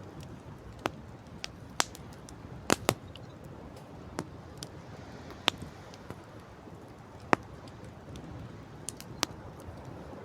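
Wood campfire crackling: about a dozen sharp, irregular pops and snaps, two close together near the three-second mark, over a steady background rush.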